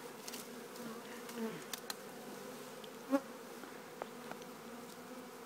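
Swarm of honey bees buzzing in a steady, even hum, with one bee buzzing louder past close by about three seconds in.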